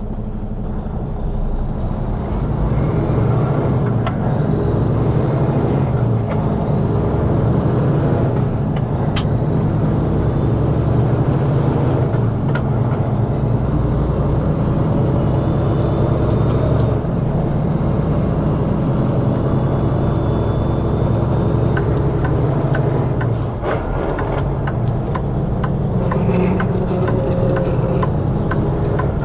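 Semi truck's diesel engine running steadily under way with road noise, heard from inside the cab, easing off briefly about three-quarters of the way through.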